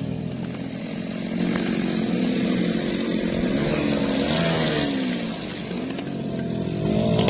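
MOTOYAMA 1000 chainsaw engine running loud, its pitch rising and falling again and again as the throttle is worked, as when cutting teak.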